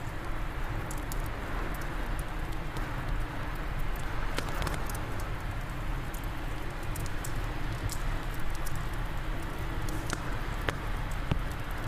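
Wind blowing steadily over a crackling fireplace fire: a low rumble and rushing, with scattered sharp pops and snaps from the burning wood.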